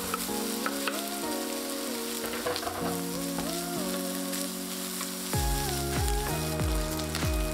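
Diced bacon sizzling as it fries in a nonstick frying pan, stirred with a wooden spatula. Background music plays over it, with a bass beat coming in about two-thirds of the way through.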